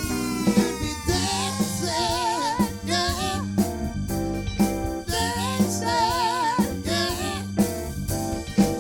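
Live soul band playing: drum kit, bass and guitar chords under a lead melody with a wide vibrato that comes in short repeated phrases.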